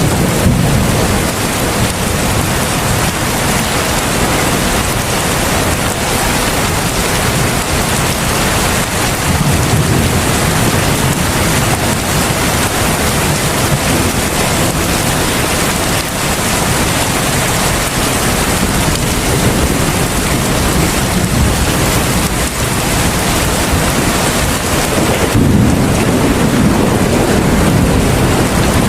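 Heavy rain falling steadily in a dense, even downpour, with a deeper low rumble swelling in near the end.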